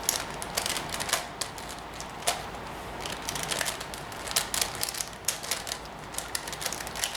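Plastic 5x5 Rubik's cube being turned rapidly by hand: dense, irregular clicking and clacking as the layers snap round. The cube is one that keeps locking up mid-turn.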